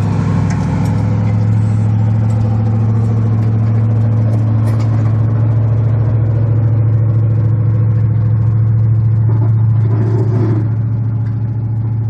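Snowplow truck engine running steadily with a deep, even hum, with scattered light clicks over it as the road is plowed.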